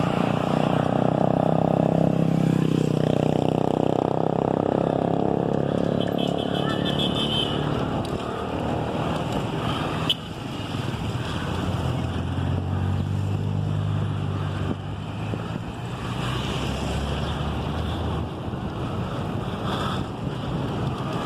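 Motor vehicle engines running on a road, over steady road noise. In the first few seconds the engine pitch rises and falls, and later a lower engine tone holds steady for several seconds.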